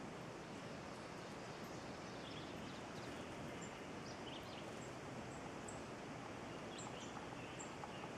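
Small birds chirping faintly, short high calls scattered every second or so over a steady background hiss.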